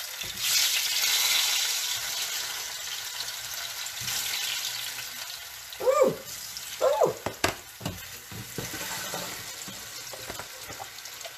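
Plantain slices frying in a pan of hot oil, a steady sizzle that is strongest in the first couple of seconds as slices go in, then settles lower. A few short louder sounds and a sharp knock come about six to eight seconds in.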